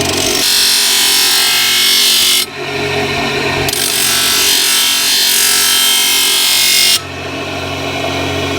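A power tool working metal in two long bursts that start and stop abruptly, over a steady low machine hum.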